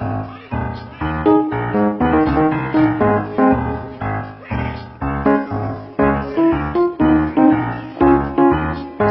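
Piano music: a steady run of notes over a bass line, struck several times a second.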